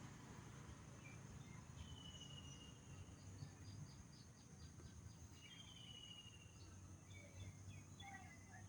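Faint wild birdsong: two drawn-out thin whistled notes, each falling slightly in pitch, with scattered short chirps, over a steady high insect drone and low rumble.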